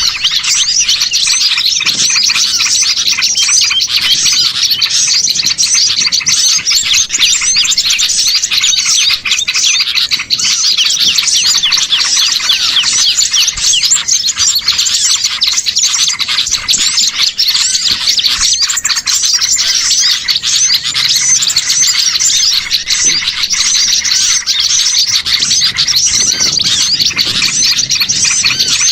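Dense, unbroken chorus of many small songbirds chirping and twittering over one another: a mixed small-bird lure recording used to call wild birds in.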